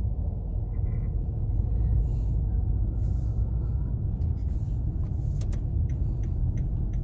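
Steady low rumble of a city bus in motion, engine and road noise heard from inside the cabin, with a few light clicks in the second half.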